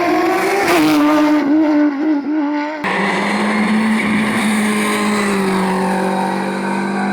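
Race car engines running hard at high revs on a hillclimb. The engine note wavers for the first few seconds, then switches abruptly to a different car's steadier, lower note that drops slightly in pitch.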